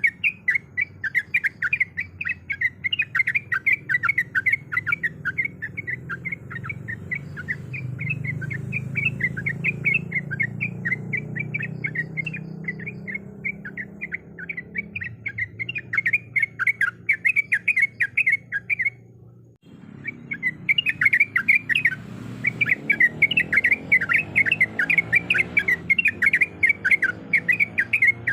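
Yellow-vented bulbul (trucuk) singing a rapid, unbroken run of short bubbly chirps, which breaks off for about a second two-thirds of the way through and then starts again.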